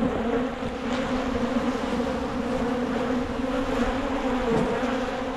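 Many honeybees buzzing in flight around an opened hive: a steady, dense drone with a low hum and its higher overtone.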